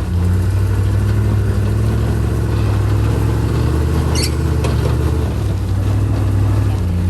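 Rock-crawling truck's engine running at low revs, holding steady with small rises and dips in pitch. A brief high squeak comes about four seconds in.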